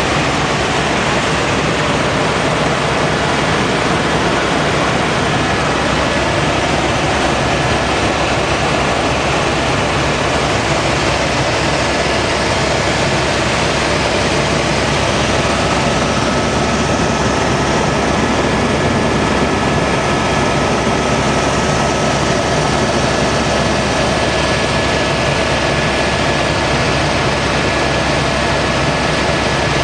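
Helicopter in flight: the steady, loud drone of its engine and rotor, with a faint steady whine over it.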